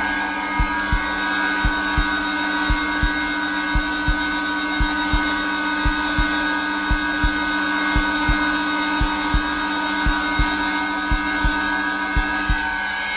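Zelmer vacuum cleaner running steadily on its lowest setting, its motor giving a constant whine, mixed with a heartbeat: paired low thumps about once a second.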